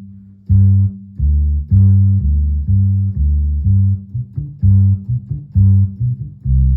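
Electronic bass sample played on a Medeli AKX10 keyboard: a bass line of short, separate low notes, about two a second.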